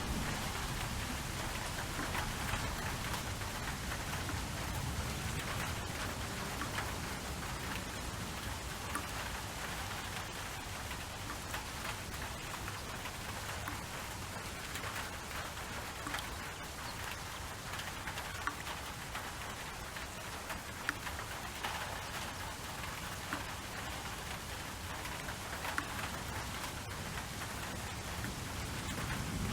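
Steady rain falling, with many small drop ticks over a low, even rumble.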